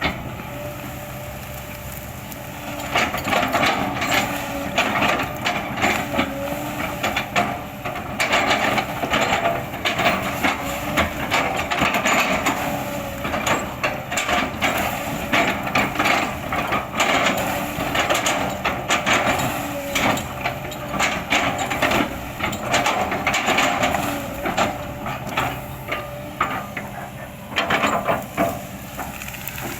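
Kobelco hydraulic excavator running under load while its bucket chops and crushes oil palm trunks, with repeated irregular cracks and crunches of splintering wood over the engine's steady drone.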